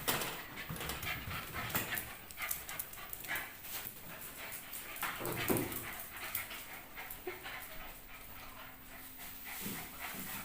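Pomeranian puppy panting and whimpering, with many short clicks, and a brief higher-pitched whine about halfway through.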